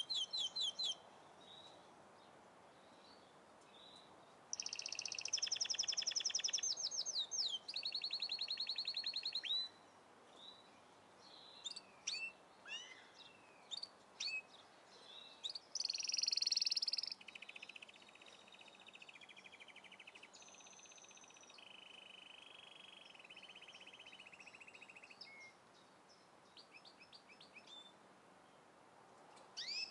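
Several songbirds singing in turn: long runs of rapid high trills and repeated notes, with short chirps and whistles between them.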